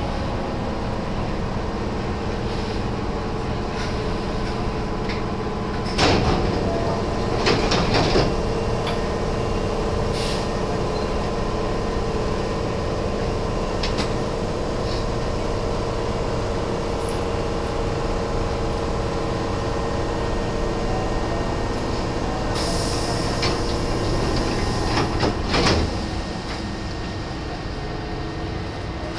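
Nose Electric Railway 1700 series electric train running, heard on board: a steady rumble of wheels on rail with a constant motor hum. There are sharp clatters about six and eight seconds in and again near the end, after which the running sound eases a little.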